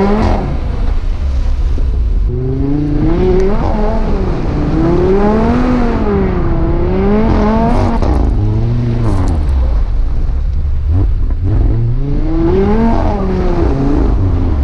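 Big-turbo Audi RS3's turbocharged inline five-cylinder engine revving up and down over and over, its pitch rising and falling every second or two as the car is driven hard.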